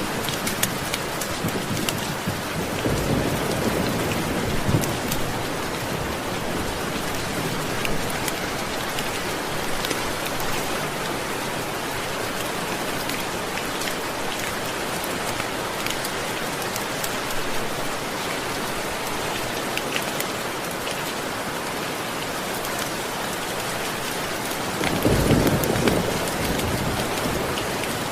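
Steady heavy rain with scattered sharp drop ticks, and low rumbles of thunder, a faint one a few seconds in and a louder roll about 25 seconds in.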